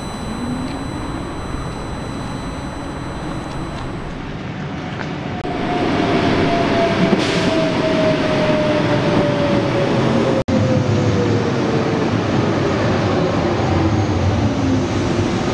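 Train running with loud rolling noise and a motor whine that falls slowly in pitch as it slows. It gets louder about five seconds in and cuts out for an instant near the middle.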